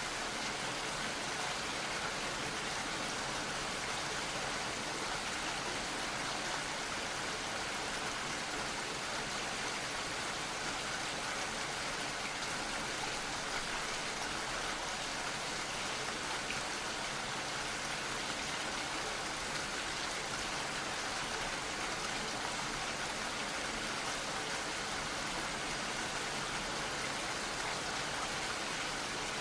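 Gentle rain falling steadily, a soft even hiss of many small drops.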